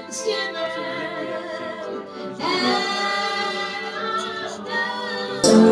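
Worship singing: voices holding long, flowing sung notes with no clear words. Near the end the sound suddenly becomes louder and fuller, with a low bass coming in.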